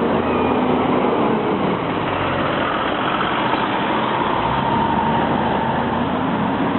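Motor vehicle engines running steadily, with road traffic moving over a level crossing.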